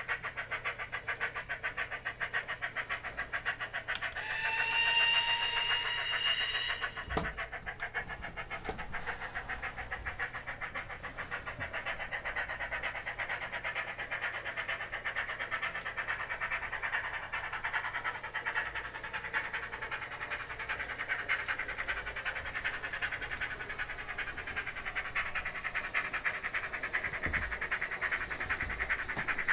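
Recorded steam-locomotive chuffing, played through the small speaker of a sound-fitted Graham Farish N gauge SECR N class model, beats rapidly and steadily. About four seconds in, the model's steam whistle sounds for about three seconds.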